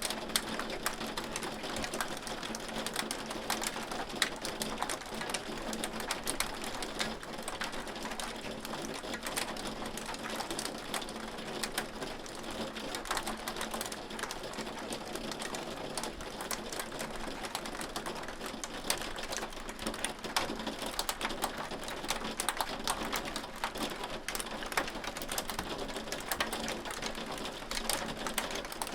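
Hail falling steadily: a dense, uneven patter of many small hard clicks, with sharper, louder ticks scattered throughout. A faint steady low hum lies underneath.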